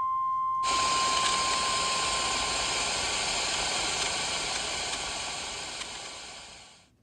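Loud, even static hiss like white noise, starting under a second in and fading out near the end. Over its first seconds runs a steady high beep, a single test-tone-like pitch that stops about two seconds in.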